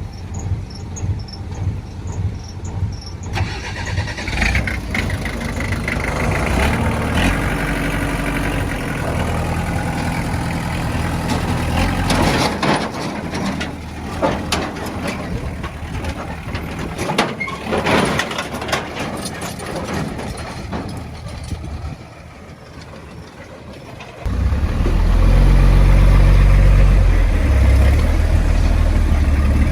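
Heavy diesel machinery at work: engines run and rev, with stretches of rattling and clatter in the middle. The engine noise drops briefly, then a much louder, deep engine comes in close about three-quarters of the way through.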